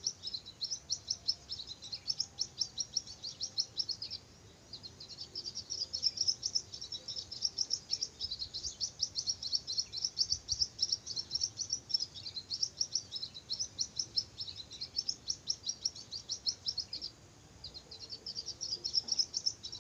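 Bird chirping in a rapid, continuous run of high repeated notes, with a brief pause about four seconds in and a longer one near the end.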